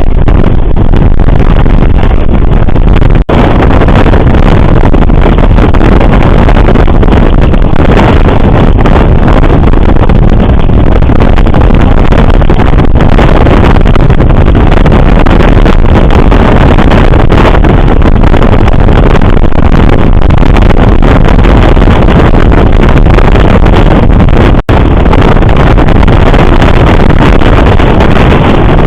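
Loud, steady rumble of a moving passenger train, with wind buffeting the microphone. The sound drops out for an instant twice.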